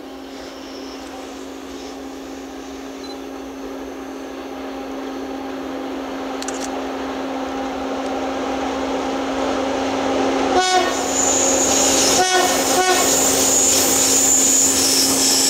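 Locomotive-hauled passenger train approaching and growing steadily louder, its locomotive giving a steady hum. From about ten seconds in, sharper higher wheel and rail sounds join as it draws close.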